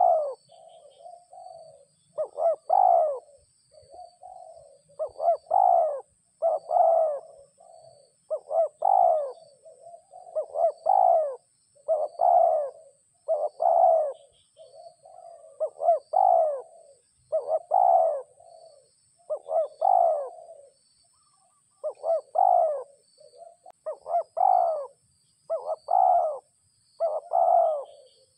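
A dove cooing over and over, loud and close, one short phrase of several coo notes about every one and a half to two seconds.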